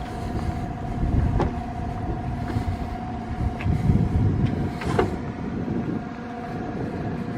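Steady mechanical hum of running engines over an uneven low rumble, with a couple of sharp clicks.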